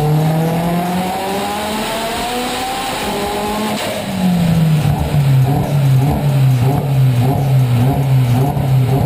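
Highly tuned turbocharged 2.0 TFSI four-cylinder in a VW Golf 6 R revving under load on a chassis dyno, its pitch rising steadily. About four seconds in it lets off and the pitch drops, then it holds a loud note that wavers up and down in a regular rhythm.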